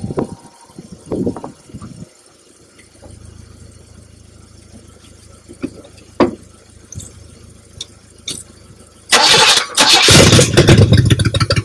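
1972 Buick Riviera's 455 V8 being cranked over on the starter, starting suddenly and loud about nine seconds in after a few scattered clicks and knocks.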